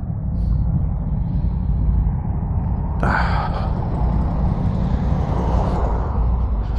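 Motorcycle engine running at low speed with a steady low rumble, and a sudden hiss about three seconds in that fades away.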